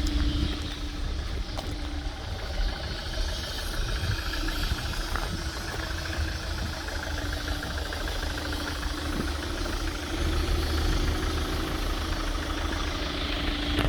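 Chevrolet Winstorm SUV engine idling steadily, with a constant low hum over the running.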